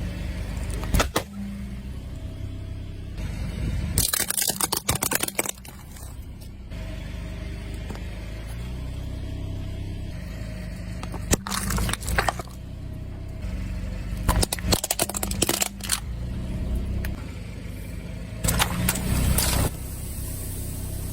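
Truck engine running low and steady, with several loud bursts of crunching and crackling as objects are crushed under its tyres.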